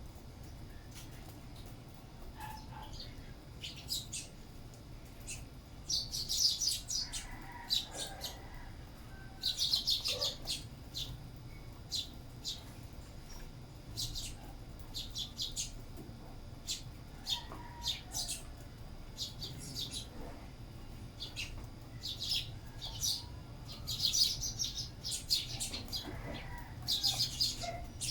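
Sparrows chirping at feeding: scattered single high chirps, with bursts of rapid, excited chirping about a quarter of the way in, again shortly after, and twice near the end. A steady low hum lies underneath.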